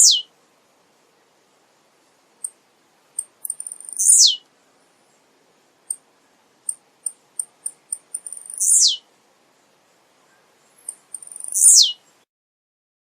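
Male blue-black grassquit (tiziu) singing. Each song is a run of short high ticks that speeds up into a buzzy note sliding down in pitch, heard three times about every three to four seconds.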